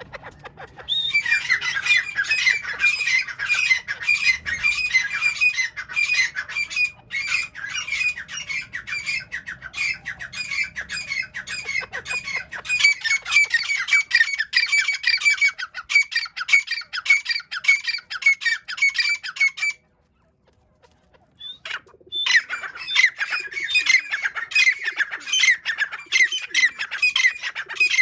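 Francolin (teetar) calling loudly in a fast, unbroken run of harsh, repeated notes. The calls cut off suddenly about two-thirds of the way through and pick up again about two seconds later.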